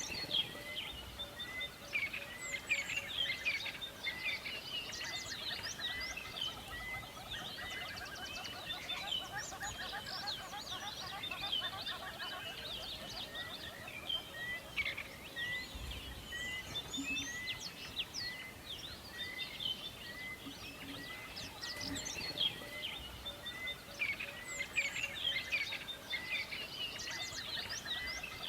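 Forest bird chorus: many birds chirping and singing over one another, with one bird repeating a short note about twice a second for long stretches.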